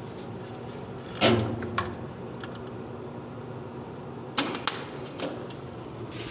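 Sharp metallic clicks and knocks of hand tools on metal, in two short bursts about a second in and again near four and a half seconds, over a steady shop hum.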